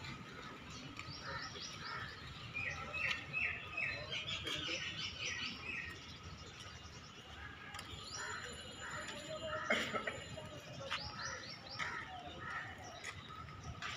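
Small birds chirping: runs of short, high chirps repeated in quick series, with one sharp knock about two-thirds of the way through.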